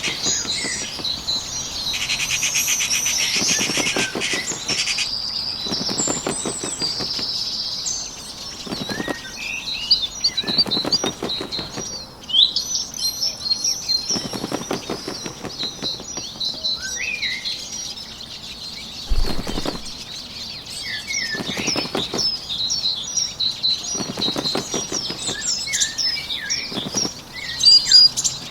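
Recorded birdsong ambience, with several birds chirping and trilling throughout, and short bursts of bird wings flapping every few seconds.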